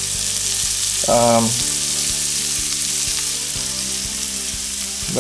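Onions and garlic sizzling steadily in bacon grease in a cast iron skillet as flour is sprinkled over them to start a gravy. A brief voice sound comes about a second in.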